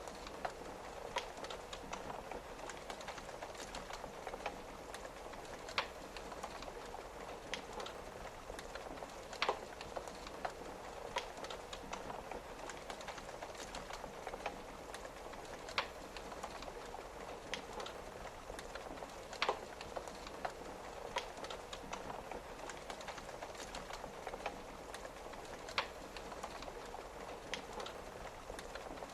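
Wood fire crackling with sharp, irregular pops, a few louder than the rest, over a steady hiss of rain on a window.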